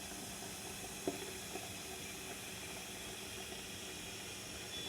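Electric kettle heating water close to the boil: a steady faint hiss of the water coming up to temperature, with one light tick about a second in.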